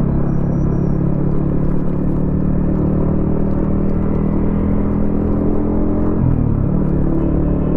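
Yamaha XSR155's single-cylinder engine running through a DIY exhaust while riding at a steady pace. About six seconds in, the engine note drops briefly and then picks back up.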